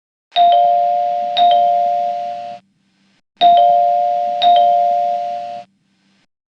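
Two-note electronic chime, like a doorbell ding-dong, sounding twice. Each time there are two strikes about a second apart, each ringing and fading before it cuts off cleanly.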